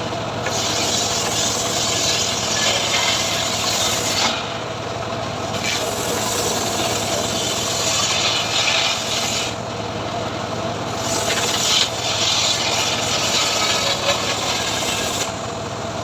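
Homemade engine-driven srekel sawing rig cutting mahogany: a harsh rasping cut in three stretches of about four seconds each, with short breaks between them, over the steady hum of its motor.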